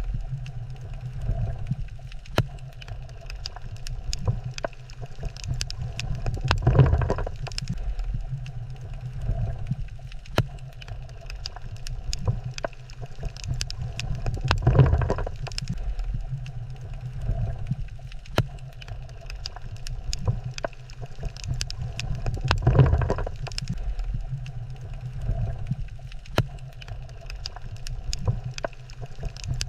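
Underwater reef ambience: a steady low rumble with constant fine crackling clicks, swelling louder about every eight seconds.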